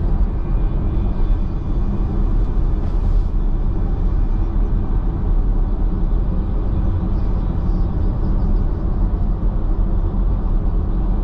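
Steady road and engine rumble inside a car's cabin at highway speed.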